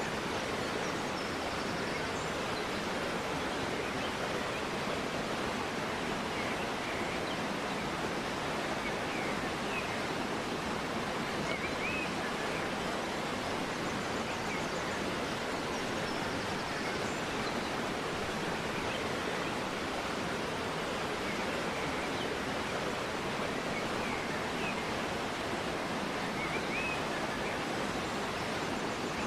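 River water flowing steadily in a continuous rush, with a few faint, short bird chirps now and then.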